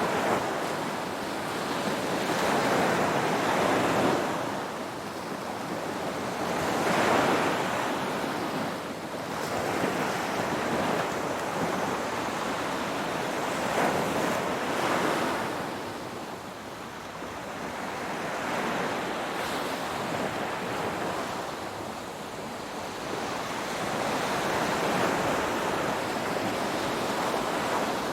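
Ocean waves washing onto a shore, swelling and receding in a slow rhythm of a few seconds per wave, with wind in the background.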